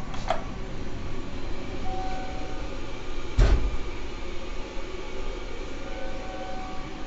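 Steady hum and hiss inside a stopped Seibu Red Arrow limited express car, with faint humming tones that come and go. There is a short click near the start and a single loud thud about three and a half seconds in.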